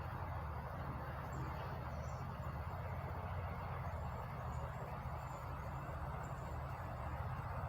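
Steady low mechanical rumble with an even hiss over it, unchanging throughout, with a few faint, short high chirps.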